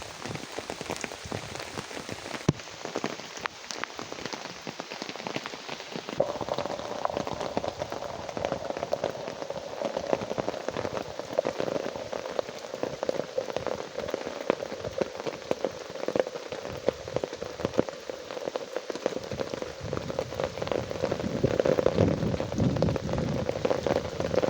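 Steady rain falling, with a dense spread of individual drop hits on a surface; it grows louder toward the end.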